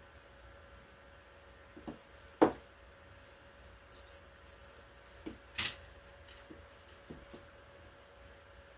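A few scattered sharp knocks and clicks, the two loudest about two and a half and five and a half seconds in, over a faint steady hum.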